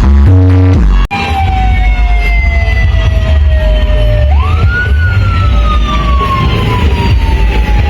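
Siren-style wail from a loud sound-system rig, sliding slowly down, then rising sharply and sliding slowly down again, over heavy pounding bass. A burst of bass-heavy electronic music cuts off about a second in, just before the wail starts.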